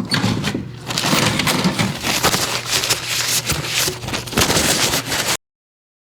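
Windstorm wind and rain noise on the camera microphone, a loud rushing hiss with crackles, which cuts off abruptly about five seconds in.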